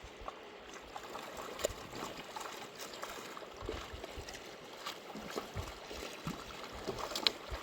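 River water running and splashing, with scattered small splashes and a few sharp clicks, one about a second and a half in and one near the end.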